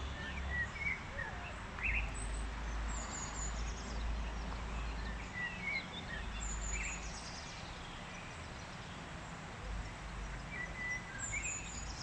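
Birds singing and chirping, with a short high song phrase repeated every few seconds, over steady outdoor background noise and a low rumble that comes and goes.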